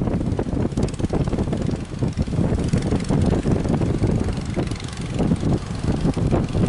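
Strong wind buffeting the microphone in uneven gusts, over the low, steady drone of a boat's engine.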